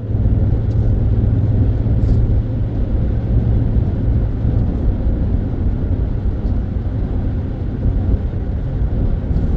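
Truck being driven on the road: a steady low rumble of engine and road noise.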